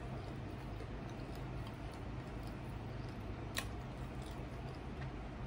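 Quiet mouth sounds of someone chewing fried chicken, with a few small clicks and one sharper click about three and a half seconds in, over a steady low background hum.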